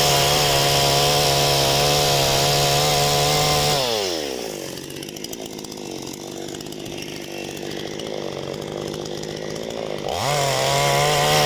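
Parma BP-058 two-stroke chainsaw with an Oregon chain running at full throttle for the first few seconds, most likely cutting through a log. It then drops to idle, and revs back up to full throttle near the end.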